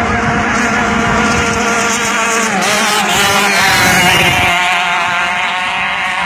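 Two-stroke KR engine of a river racing boat running at high revs, high-pitched and loud; its pitch dips briefly about halfway through, then climbs again.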